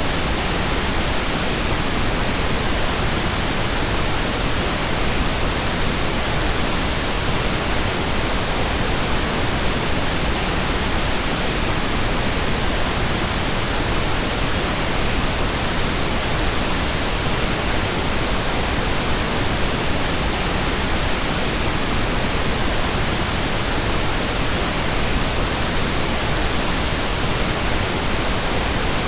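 Pink noise: a steady, even hiss spread across all frequencies, unchanging.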